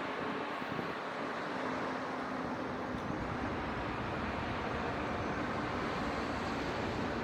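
Steady city traffic noise: a continuous rumble and hiss of distant road traffic, with a faint hum running through it.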